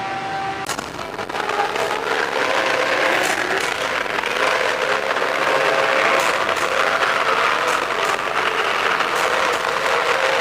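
Large crowd applauding, swelling about a second in and then holding steady.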